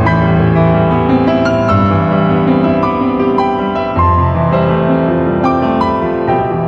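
Background piano music: a slow, gentle melody of sustained notes.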